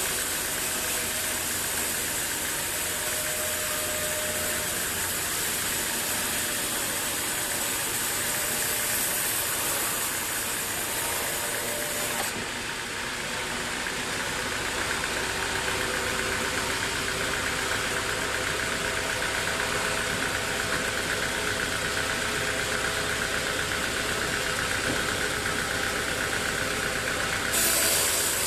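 Sawmill machinery running with a steady engine-like drone and hiss. About twelve seconds in the high hiss drops away and a higher whine takes over, and the hiss comes back near the end.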